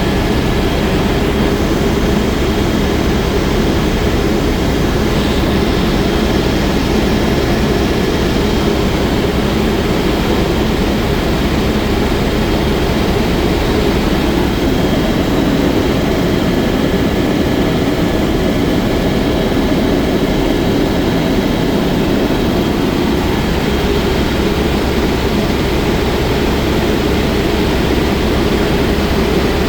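Helicopter in flight: steady, loud engine and rotor noise with a thin, faint high whine running through it.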